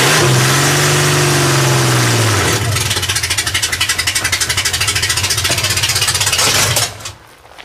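Supercharged Ford V6 engine running loud: a brief rev that rises and falls, then a fast, rough pulsing run, before it cuts out suddenly near the end.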